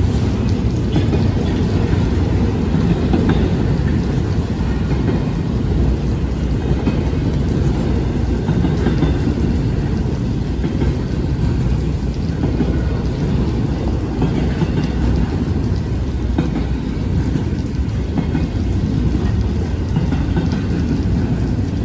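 Intermodal freight train rolling past, a steady deep noise of wheels on rail that holds at the same level throughout.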